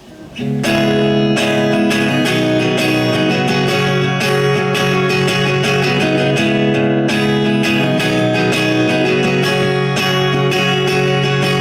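Guitar strumming the opening chords of a song, starting about half a second in and continuing steadily.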